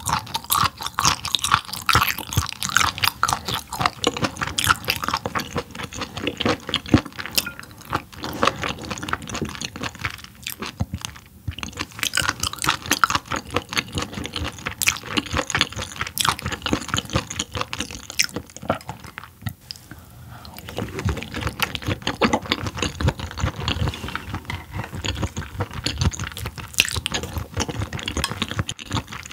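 Close-miked chewing of raw yellowtail sashimi: wet, clicky mouth sounds that go on steadily, with a couple of brief pauses.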